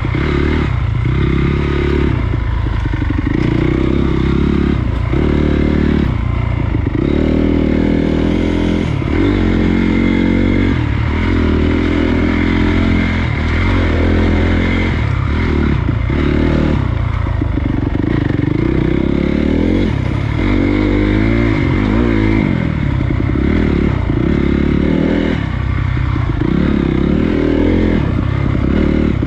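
Honda CRF250 dirt bike's single-cylinder four-stroke engine running while riding, the revs rising and falling every second or two as the throttle is opened and closed, over a steady rushing noise with some clatter.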